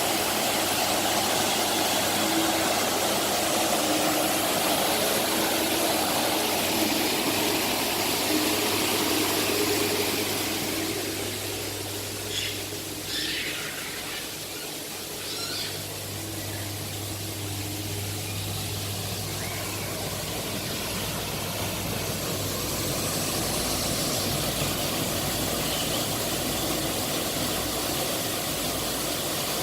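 A steady engine-like hum with a low drone and an even haze of noise. The level dips about a third of the way in, with a few brief high squeaks, then rises again.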